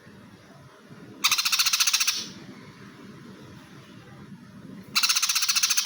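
Cucak hijau (greater green leafbird) singing two loud bursts of fast chattering notes, about a second each, in sparrow-imitation song given in fighting mood: one about a second in, the other near the end.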